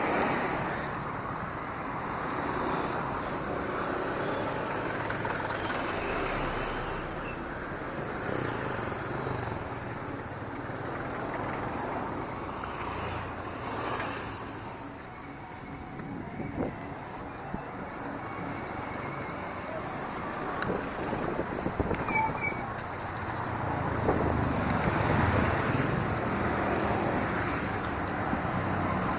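Wind on the microphone and the rumble of bicycle tyres on a dirt trail while riding, with a few short clicks and rattles.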